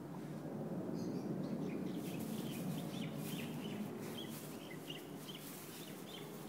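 Small birds chirping again and again in short calls, over a low rustling background noise.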